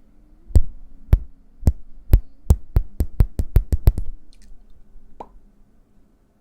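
Hands making a run of about a dozen sharp percussive clicks, half a second apart at first and then quickening to several a second, stopping about four seconds in. One softer click follows a second later.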